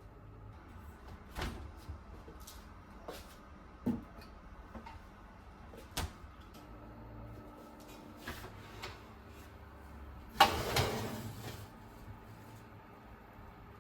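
Kitchen handling sounds: a few scattered light knocks and clicks, then a louder clatter with a brief scrape about ten seconds in.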